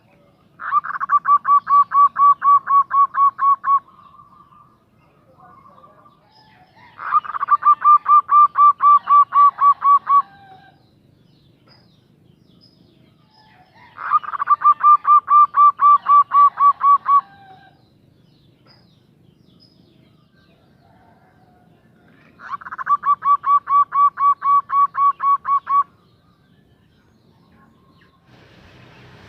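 Female zebra dove (perkutut) calling: four bursts of rapid, evenly spaced notes, about four a second. Each burst lasts about three seconds, and the bursts come several seconds apart.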